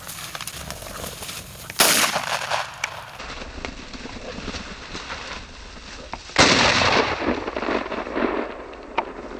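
Two shotgun shots at flushed quail, the second about four and a half seconds after the first, each with a short echo trailing off.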